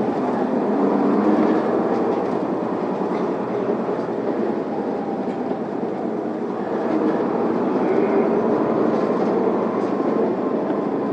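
Cabin noise of an Isuzu Erga diesel city bus pulling away from a stop and running: a steady engine and road noise with faint whines that shift in pitch.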